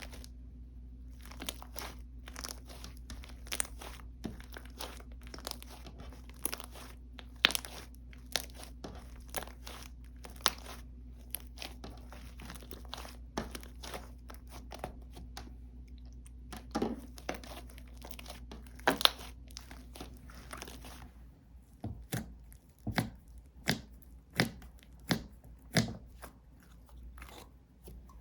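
Hands playing with slime: a stream of sticky clicks and small pops as it is pressed, stretched and folded, over a low steady hum. The hum stops about three-quarters of the way through, and the pops then come louder and evenly spaced, a little under a second apart.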